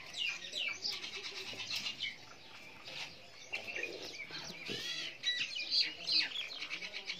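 Small birds chirping, a dense run of short high calls overlapping one another.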